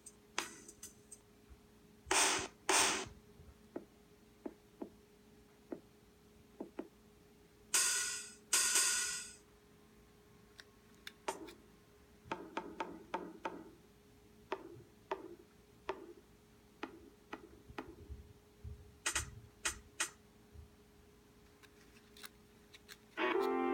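Paper being handled and worked by hand: scattered light clicks and taps, with two pairs of short rustling bursts about two seconds in and about eight seconds in, over a faint steady hum. Piano music comes in just before the end.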